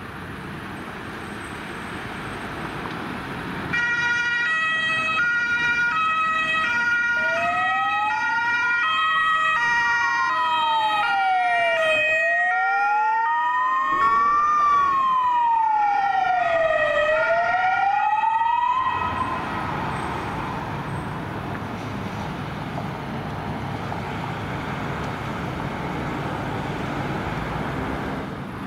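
Emergency vehicle sirens passing in traffic: an alternating two-tone siren starts about four seconds in, joined shortly after by a wailing siren that rises and falls slowly, about every two and a half seconds each way. Both cut off together after about fifteen seconds, leaving traffic noise.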